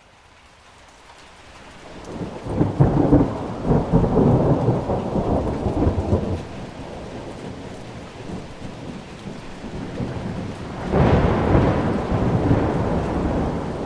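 Thunderstorm: steady rain with rolling thunder. A low rumble swells over the first two seconds and rolls on for several seconds, and a second, sharper thunderclap breaks about eleven seconds in and rumbles on.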